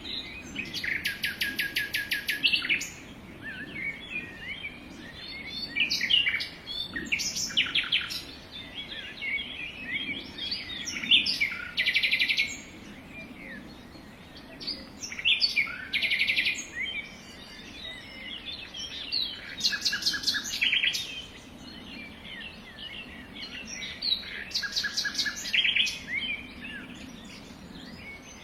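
Several wild birds singing and calling: scattered chirps and a number of fast, rattling trills, one after another.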